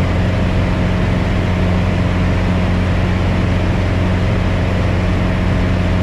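Piper Cherokee 180's Lycoming O-360 four-cylinder engine and propeller droning steadily at full power, 2,700 rpm, while a new engine is being broken in.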